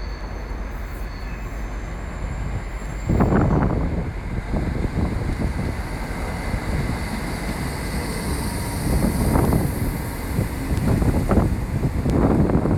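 Northern passenger train pulling into the station: a steady low rumble that gets louder about three seconds in, with uneven surges as it runs in.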